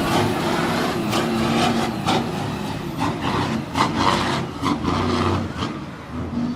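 A heavy vehicle's engine running steadily, with a string of irregular knocks and clatters from about a second in.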